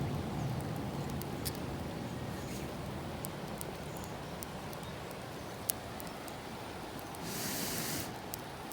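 Wood campfire crackling, with scattered small sharp pops over a low steady background noise; a short burst of rustling hiss about seven seconds in.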